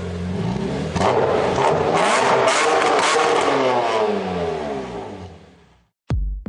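Peugeot 307 HDi turbodiesel engine revving hard on a chassis dynamometer, jumping louder about a second in, then fading away. Electronic music with a steady beat comes in near the end.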